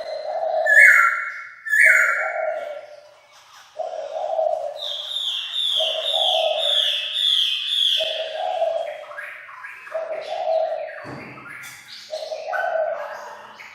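Bird calls: a decoy Chinese francolin calling, mixed with other birds. A low cooing note repeats about once a second, and a run of quick falling high notes comes in the middle.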